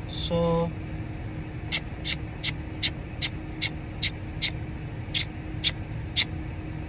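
A young pet parrot chirping: a run of about a dozen short, sharp, high calls, roughly two or three a second, starting about two seconds in. Under it runs a steady low hum inside the parked car.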